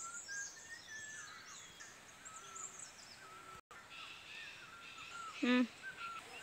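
Several wild birds chirping and whistling in short, high, gliding notes throughout. A brief gap in the sound about halfway. A short, loud pitched call or cry near the end.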